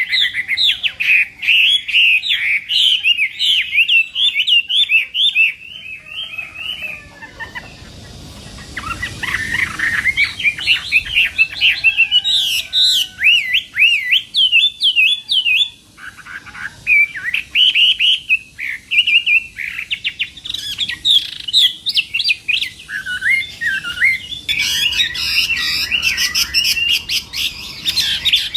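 Chinese hwamei (hoạ mi) singing a loud, varied song of rapid rising and falling whistled notes. There is a brief lull about a quarter of the way in before the song resumes.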